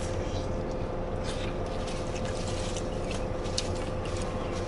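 A man chewing food, with scattered small clicks and rustles from handling it, over a steady low hum in the car cabin.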